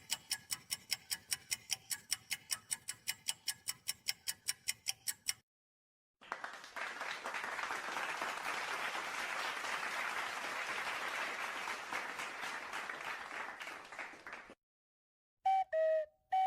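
Stock sound effects played back to back. First comes a rapid, even ticking, about five or six ticks a second, for some five seconds. After a short gap comes a crowd clapping and applauding for about eight seconds, and near the end two short pitched blips that drop in pitch.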